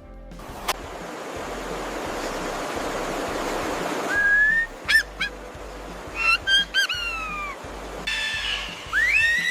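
A rushing, hiss-like noise swells over the first few seconds, then comes a series of high whistled animal calls that slide in pitch: a few short calls, a run of falling calls, and one rising call near the end.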